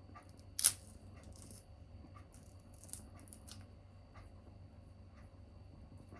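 Small tabletop wood fire crackling, with scattered light ticks and a sharp pop about half a second in and a smaller one about three seconds in.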